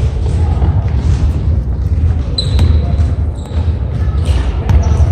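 Repeated dull thuds over a steady low rumble, with a brief high squeak about halfway through.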